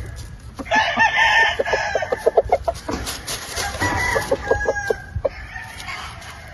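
Gamefowl roosters crowing twice, the first crow about a second in and the second around four seconds in, with short clucks between.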